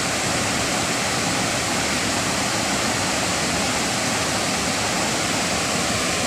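Steady rush of fast-flowing river water, an even hiss that holds at the same level throughout.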